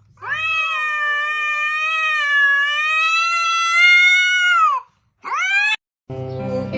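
A cat yowling: one long drawn-out call of nearly five seconds, then a short rising meow. Music with guitar and singing starts near the end.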